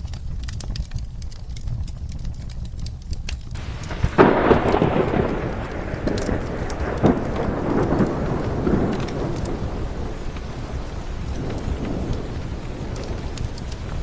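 Rain with the wood fire crackling in scattered pops over a low rumble; about four seconds in, a thunderclap breaks and rolls away over several seconds.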